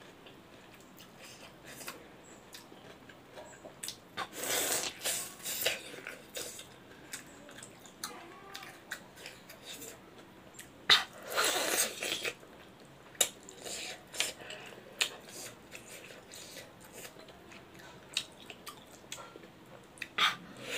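Close-up wet chewing and mouth clicks as braised pork leg is eaten by hand. Louder bursts of biting into the meat come a few seconds in and again about halfway through.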